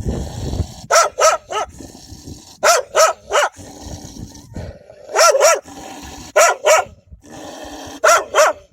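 A dog barking hard, in quick groups of two or three barks with short pauses between them.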